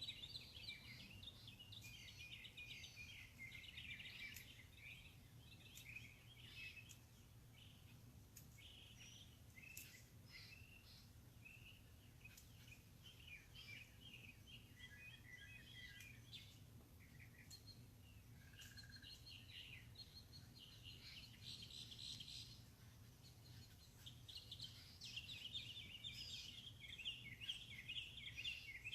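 Birds chirping and chattering, with many short calls overlapping and loudest near the end. A faint steady low hum runs underneath.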